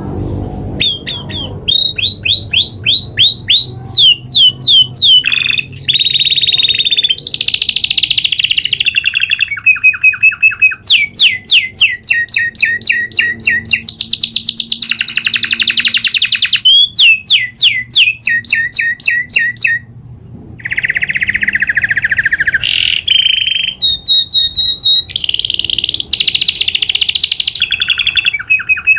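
Domestic canary singing a long, continuous rolling song. It moves through rapid trills of fast repeated notes, each phrase changing every second or two, with a short pause about twenty seconds in.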